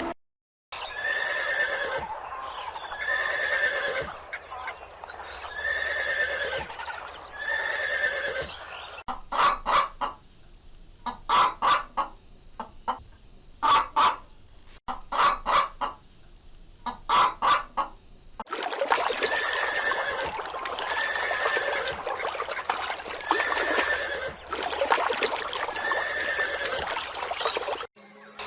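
Birds calling, a short call repeated about once a second, in three clips that change abruptly; in the last clip the calls sit over a loud steady hiss.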